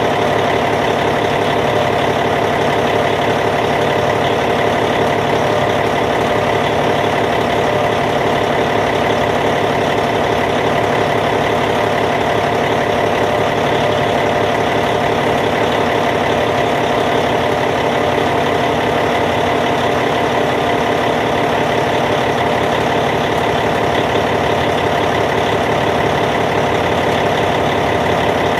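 Caterpillar C15 inline-six diesel engine of a Cat D8T bulldozer idling steadily, holding one even speed throughout.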